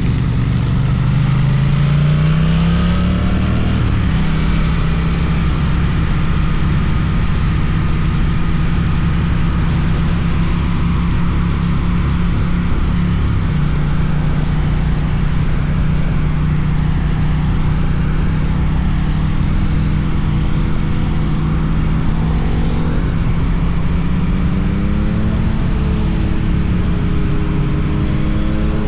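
Suzuki twin-cylinder motorcycle engine through an Akrapovič exhaust, under way: it revs up in the first few seconds, holds a steady cruising pitch, drops once about halfway through, then climbs again in short steps near the end as the rider accelerates through the gears.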